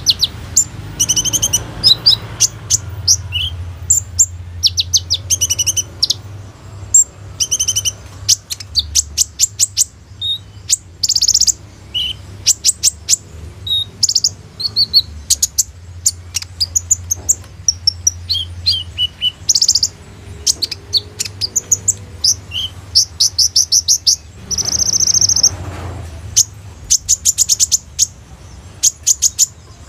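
A kolibri ninja sunbird singing energetically: a fast, almost unbroken run of high-pitched chirps, twitters and rapid trills, with a longer, harsher burst of song about 25 seconds in. A faint low hum sits underneath.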